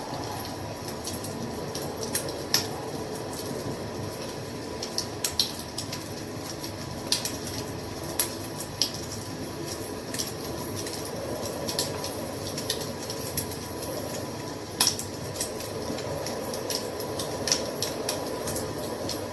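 Wood fire crackling: a steady low rush of flames with irregular sharp pops and snaps of burning wood, a few of them louder than the rest.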